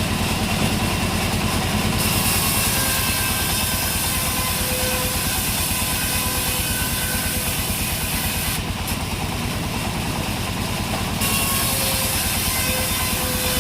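An engine running steadily at idle, with an even, fast low throb.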